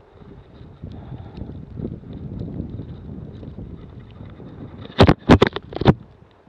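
Wind rumbling and buffeting on the microphone in a snowstorm, then four sharp knocks in quick succession about five seconds in.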